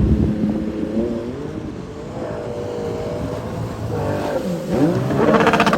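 Sea-Doo Spark personal watercraft engine running and revving, its pitch dipping and climbing again near the end.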